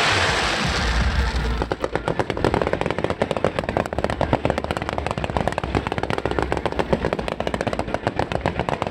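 Fireworks crackling: a dense rattle of many small sharp pops in quick succession.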